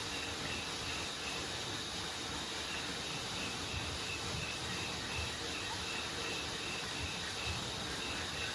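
Insects calling: one pulses in a steady beat about twice a second over a continuous high buzz, against a steady even hiss.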